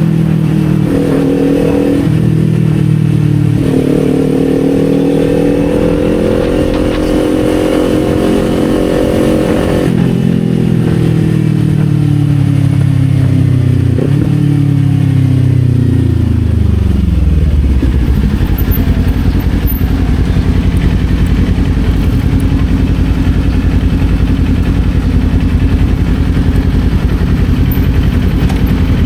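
Kawasaki Z400's 399 cc parallel-twin engine pulling through quick upshifts, its pitch dropping at each shift, then holding a steady high note. About ten seconds in the throttle comes off and the pitch winds down as the bike slows, settling into a steady idle for the last ten seconds or so.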